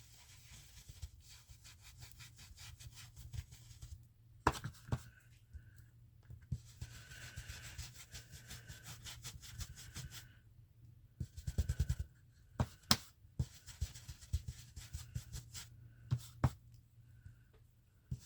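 Ink blending brush rubbing and dabbing ink through a stencil onto paper: quick scratchy strokes with several louder knocks, one about four seconds in and a cluster a little past the middle.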